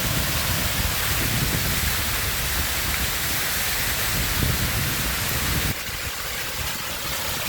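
Close-up rush of water from a pump-fed waterfall splashing into its pool, a steady hiss with a low rumble underneath that drops off abruptly near the end.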